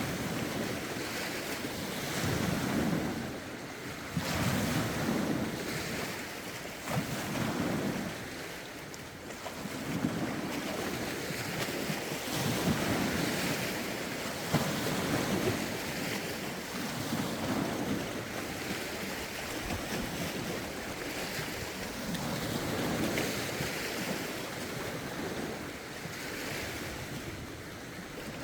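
Lake waves washing ashore in a steady rhythm, a wave every couple of seconds, with wind rumbling on the microphone.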